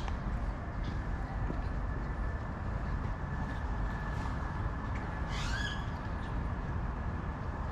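City park ambience: a steady low rumble of distant traffic, with a short rising bird call about five seconds in.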